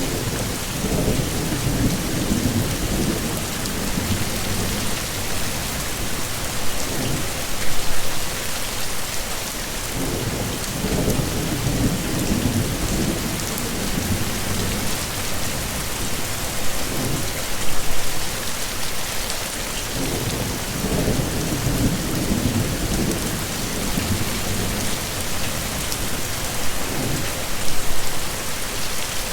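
Heavy rain pouring steadily, with low rumbles of thunder swelling up about every ten seconds.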